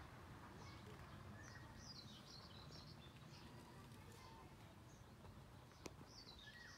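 Faint birdsong: small birds chirping in short, high phrases, with a quick run of notes about two seconds in and another near the end, over a low steady background rumble. A single sharp click comes shortly before the end.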